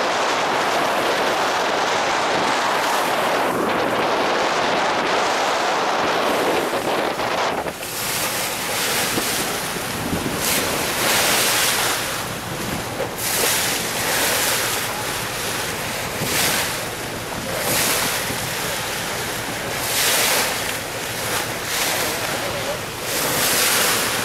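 Wind buffeting the microphone over water rushing past a moving boat. About eight seconds in, the sound changes to repeated splashing surges every second or two.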